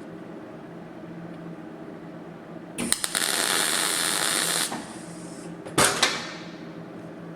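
MIG welding torch laying a tack weld on a steel sill panel: a crackling arc hiss for about two seconds that cuts off sharply, then a second brief loud burst about a second later. A steady low hum runs underneath.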